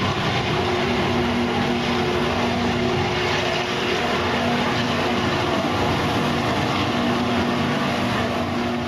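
A motor running steadily, its hum held at a few steady pitches that drop in and out, under a loud, even rushing noise.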